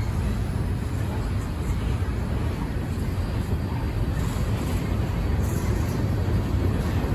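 Freight train rolling past, a steady low rumble of the cars on the rails.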